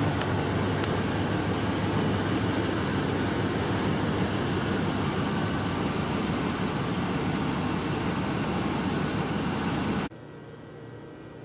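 1974 Chevrolet Monte Carlo's 350 cubic-inch V8 idling steadily, a low, dense engine sound that stops abruptly near the end.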